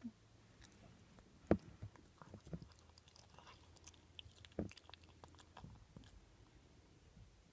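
A pet chewing and crunching food: irregular crunchy clicks, with two louder bites, one about a second and a half in and one near four and a half seconds in.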